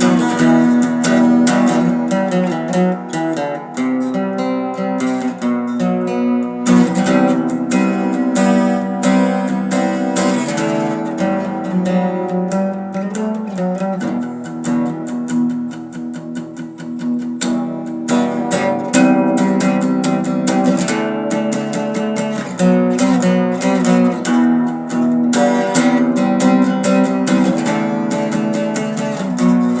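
Acoustic guitar strumming chords in an instrumental passage of a song, with no singing; it eases off for a few seconds midway, then picks up again.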